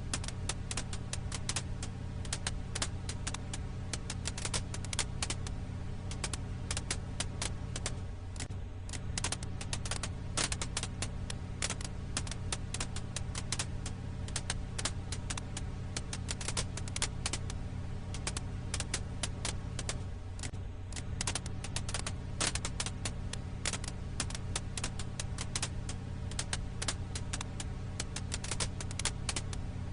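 Firewood crackling in a campfire: a dense, irregular run of sharp pops and snaps over a steady low rumble.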